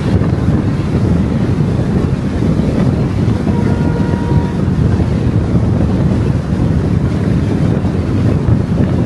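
Steady low rumble of road and wind noise from a moving car.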